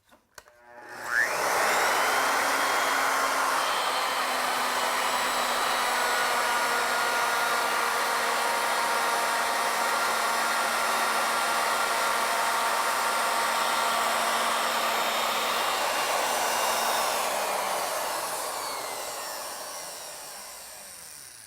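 Electric router switched on, spinning up quickly about a second in, then running steadily while its V-groove bit cuts a spiral groove along the turning. It is switched off near the end and winds down, its pitch falling and fading over the last few seconds.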